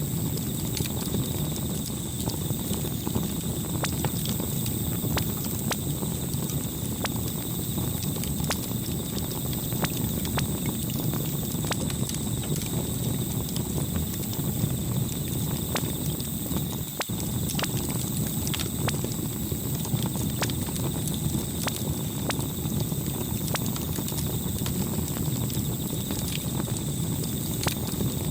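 Campfire burning: a steady low rumble of flames with frequent sharp crackles and pops from the wood.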